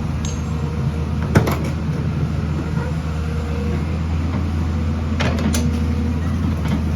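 Heavy construction machine's diesel engine running steadily, with a sharp metallic clank about a second and a half in and a few more clanks around five seconds in.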